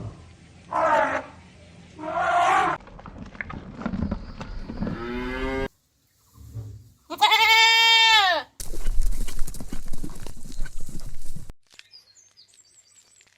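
Bleating of a goat or sheep-like farm animal: several calls, the longest and loudest about seven seconds in, rising then falling in pitch, followed by a few seconds of rustling noise.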